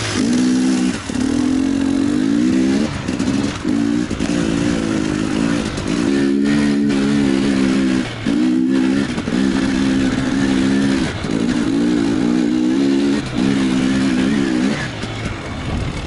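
Enduro motorcycle engine under load, the throttle opened and closed in about a dozen bursts of one to two seconds each, with brief drops in between. It settles to a lower, steadier note near the end.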